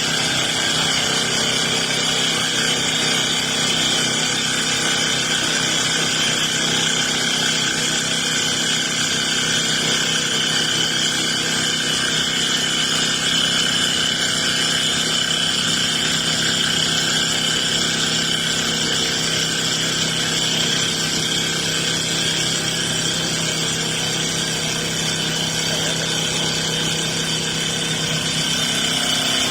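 Wood CNC turning lathe running: a steady machine drone with several constant tones that holds level throughout.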